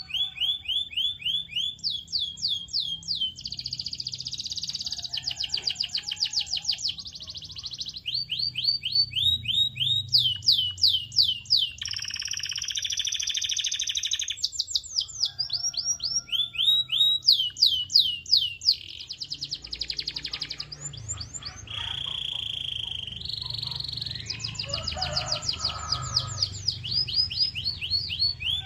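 Canary singing a continuous song of rapid trills: runs of quick, high sweeping notes repeated many times a second, switching to a new phrase every second or two, with a few held buzzy rolls.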